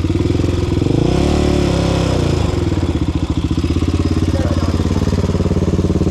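Single-cylinder sport quad engine running close by, revving up about a second in and easing back down a second or so later. The rider is rocking the quad in first gear to work it free of a stuck spot on the trail.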